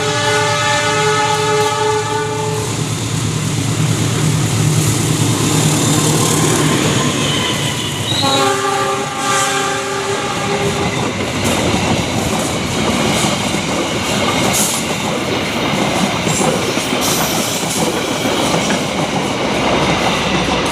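CC 201 diesel-electric locomotive passing at speed with a passenger train: two blasts of its multi-tone horn, the first ending about two and a half seconds in and the second from about eight to eleven seconds. Between and after them come the engine's drone, then the rushing wind and clattering wheels of the carriages going by.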